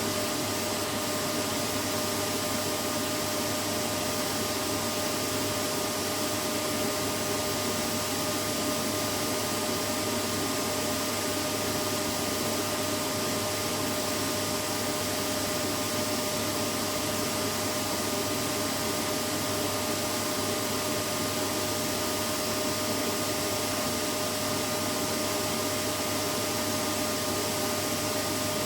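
Vacuum cleaner running steadily: an unchanging whoosh of motor and airflow with a constant whine, used as white noise to lull a baby to sleep.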